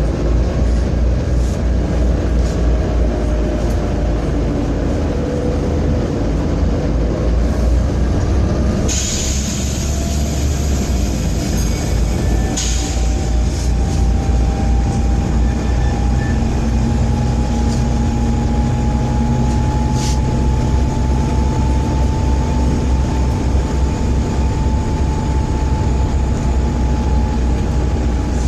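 Volvo B7TL double-decker bus's diesel engine running under way with a heavy, steady low rumble, the bad engine vibration of this bus. A short hiss of air about a third of the way in, and a faint whine that slowly rises through the second half.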